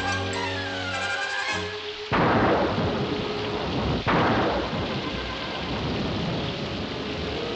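Cartoon storm sound effects: two sudden loud thunderclaps about two seconds apart, each dying away in a long rumble, over steady rain. Orchestral cartoon music plays for the first two seconds.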